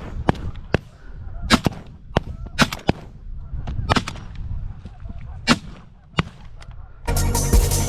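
About a dozen shotgun shots in an irregular string, some in quick pairs, with geese honking faintly between them.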